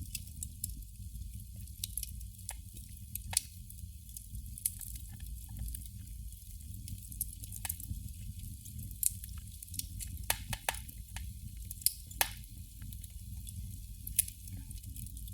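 Candle flame crackling: irregular sharp pops and ticks of varying loudness, with a quick run of pops about ten seconds in, over a steady low rumble.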